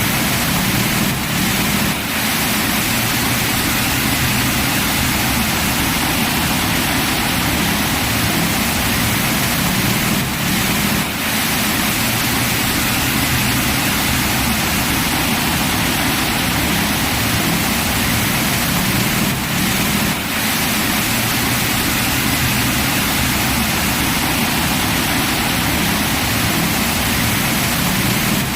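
Heavy rain pouring down in a steady, dense hiss, with a brief dip in level about every nine seconds.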